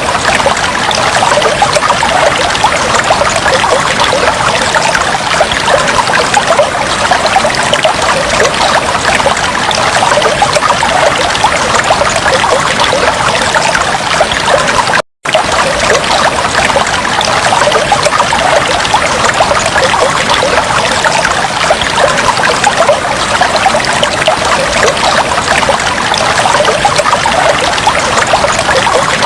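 Fish tank water trickling and bubbling steadily, with a momentary cut to silence about halfway through.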